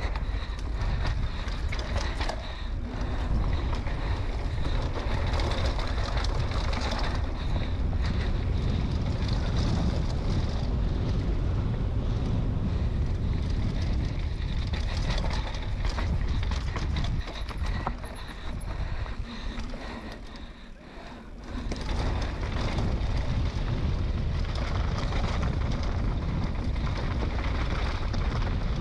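Wind buffeting an action camera's microphone: a steady, rumbling rush that drops away briefly about twenty seconds in, then returns.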